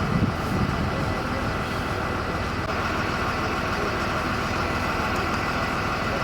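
Steady running noise of a vehicle, with a brief low rumble at the start.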